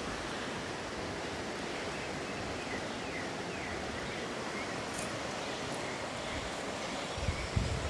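Steady outdoor ambient noise with faint, high chirps scattered through it, and a few low bumps near the end.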